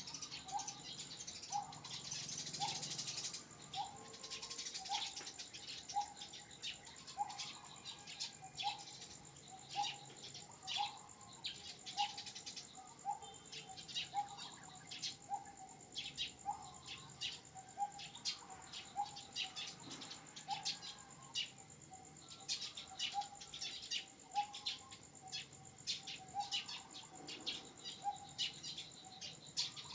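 Birds calling: one short, slightly rising note repeated roughly once a second, over many quick high chirps and a steady high thin whine.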